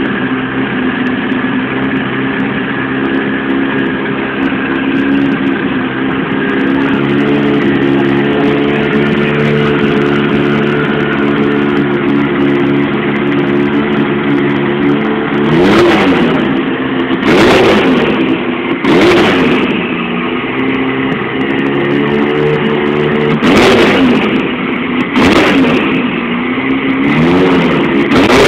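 Turbocharged Mitsubishi Lancer Evolution VI's four-cylinder engine idling steadily, then revved sharply about six times in the second half, each blip rising and dropping back to idle.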